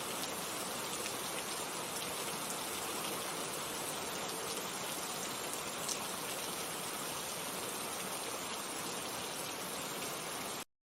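Steady rainfall, a dense hiss with scattered drop ticks, that cuts off abruptly near the end.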